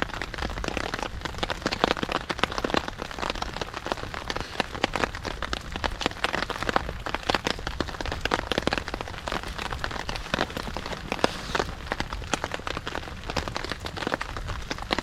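Steady rain falling on a tarp shelter: a dense, irregular patter of drops.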